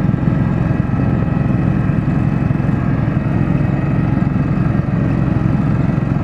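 Garden tractor engine running steadily at a constant speed, loud and close.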